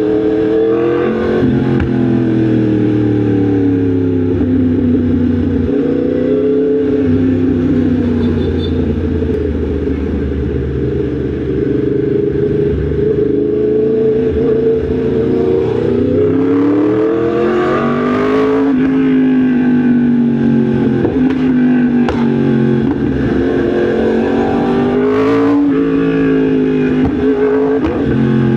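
Yamaha MT-10 SP motorcycle's crossplane inline-four engine under way, the revs climbing and dropping over and over as it pulls through the gears, with two harder pulls in the second half.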